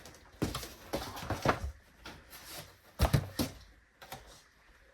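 Clicks and knocks of plastic seed-starting gear, a tray and humidity dome, being handled and adjusted: a few short clattering clusters, the loudest about three seconds in.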